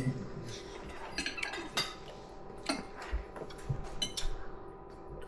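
Knives and forks clinking and scraping against plates at a dinner table: scattered short clinks, a few each second, with quieter stretches between.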